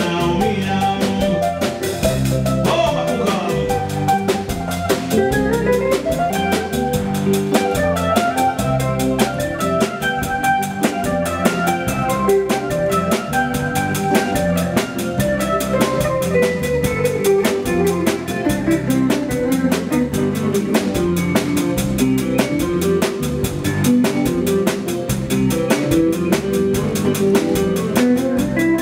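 Live dance band playing an instrumental passage: a drum kit keeps a fast, steady beat of snare, rimshot and bass drum under bass and pitched instrument lines that slide up and down.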